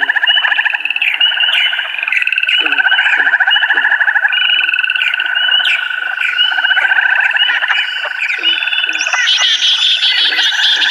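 Dense forest chorus of many overlapping chirping animal calls, repeating steadily, with a higher rapid trill joining about nine seconds in.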